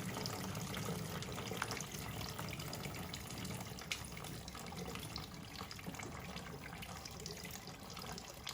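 Water running in a steady trickle, with a few faint clicks.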